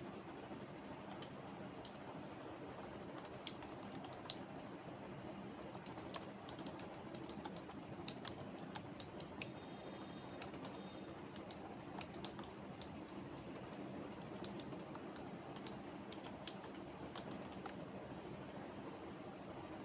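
Computer keyboard typing: irregular runs of soft key clicks with short pauses, over a steady low room hum.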